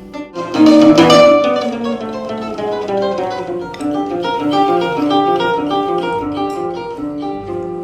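A plucked string instrument playing solo: a loud strummed chord about half a second in, then a quick melody of single plucked notes that fades slightly near the end.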